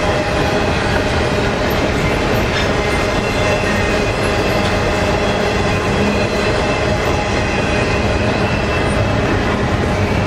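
Double-stack intermodal well cars rolling past: a steady, loud rumble of steel wheels on rail, with a few faint steady high tones running through it.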